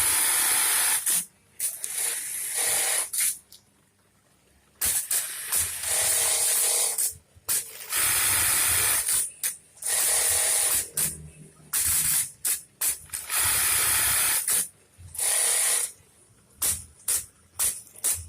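Juki 1850 industrial bartack sewing machine running repeated bartack cycles: bursts of rapid stitching about one to two seconds long, each followed by a short pause before the next cycle.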